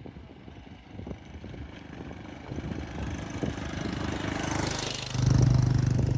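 A motorbike engine drawing closer, growing louder over several seconds, then running close by with a steady low engine hum from about five seconds in.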